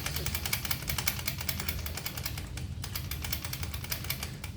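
A small engine running steadily with a fast, even ticking, about a dozen ticks a second.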